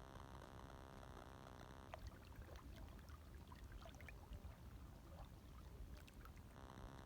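Faint, gentle lapping of small waves, with little trickling splashes from about two seconds in until shortly before the end, over a low steady hiss.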